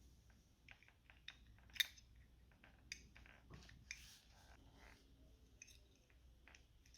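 Faint, scattered clicks and taps of small carburetor parts being handled, about a dozen, the sharpest about two seconds in.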